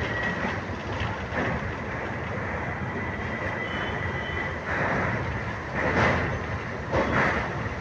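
Passenger train running across a steel truss bridge, heard from inside a carriage by the open window: a steady rumble of wheels on the rails with a faint wheel squeal in the first few seconds. It swells louder several times in the second half.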